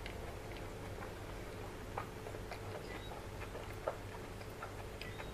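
Close-miked chewing of a mouthful of rice and curry: soft wet mouth clicks and smacks scattered through, with two sharper clicks about two and four seconds in.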